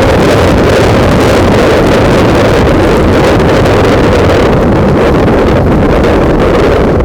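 Loud, steady wind buffeting on a bike-mounted camera's microphone while riding, drowning out other sound.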